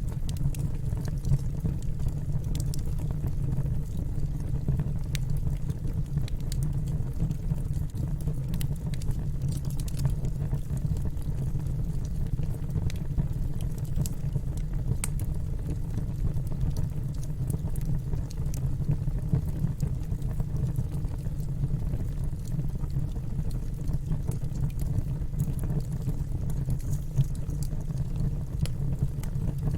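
Wood fire in a fireplace burning steadily: a low rumble with scattered small crackles and pops.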